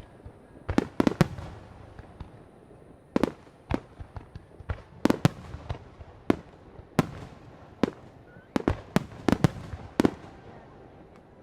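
Aerial fireworks bursting at a fireworks display: sharp bangs, often in quick groups of two to four, coming every second or two.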